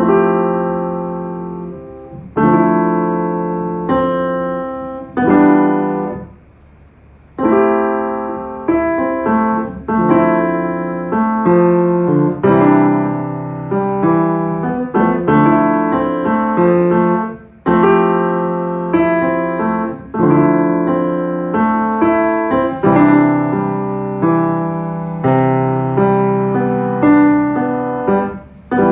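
Piano chords struck one after another, each ringing and fading, with a short break about six seconds in. The playing is simple and repetitive, with no singing over it.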